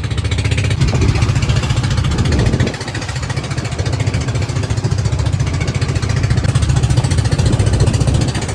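Boat engine running steadily with a fast, even chugging beat, under a rushing noise.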